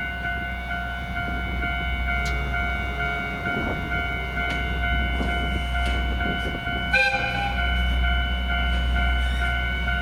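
Diesel railcar running with a steady low drone and steady high-pitched tones, and a short horn toot about seven seconds in.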